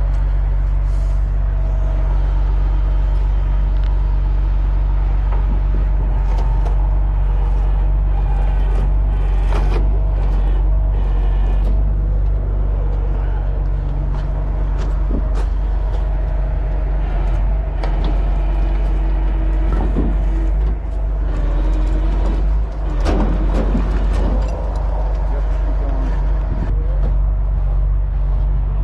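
Heavy wrecker's diesel engine running steadily at a constant speed during a winching recovery, with scattered metal clanks and knocks over it.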